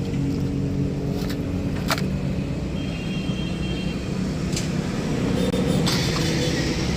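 An engine running steadily with a low hum, with several sharp metallic clicks or knocks over it.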